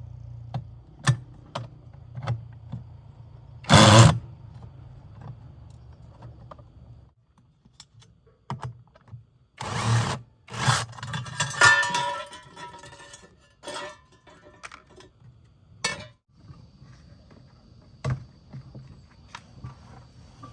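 Hands-on repair work: scattered clicks, knocks and clatter of tools and parts being handled, with a short loud noisy burst about four seconds in and a busier spell of clattering about ten seconds in. A low hum runs under the first third and returns near the end.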